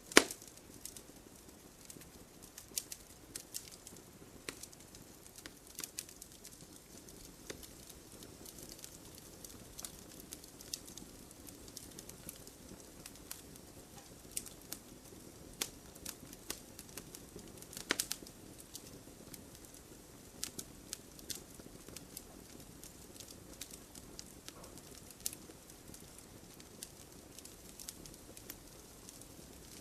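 Campfire crackling: irregular sharp pops and snaps of burning wood over a soft, steady rush of flame, with the loudest pops right at the start and about eighteen seconds in.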